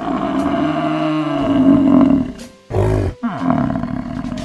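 American bison bellowing: one long, deep call of about two seconds, then a shorter, rougher call about three seconds in that falls away in pitch.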